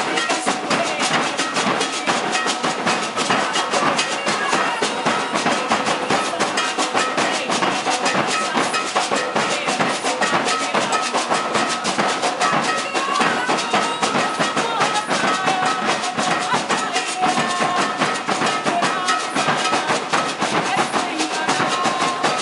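Maracatu de baque virado drum ensemble, alfaia bass drums and snare drums, playing a steady, dense rhythm without a break, with voices over it.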